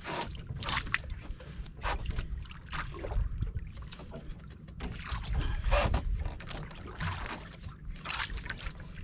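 Sea water lapping and splashing against the hull of a small boat, in uneven splashes about once a second over a low rumble.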